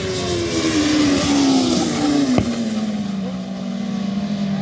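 A motorsport vehicle passing at speed, its engine note falling steadily in pitch as it goes by, with a rushing noise loudest in the first couple of seconds. A single sharp click comes about two and a half seconds in.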